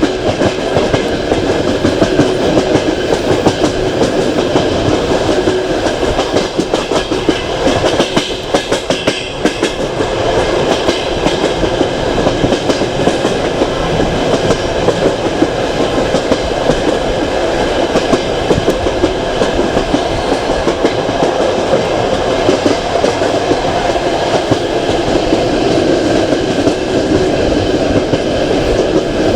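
Passenger train carriages running along the track, heard from aboard: a steady rumble with wheels clicking and rattling over the rails.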